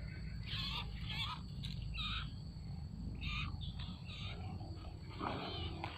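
A tame cipoh (iora) giving a series of short, wavering chirps, several in the first few seconds and another near the end, over a steady low background rumble.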